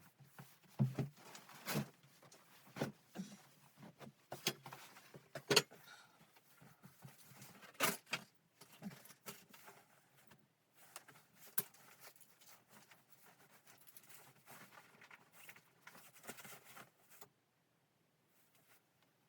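Irregular knocks, clicks and clatter of things being handled, a dozen or so sharp strikes with rustling between them, stopping a couple of seconds before the end.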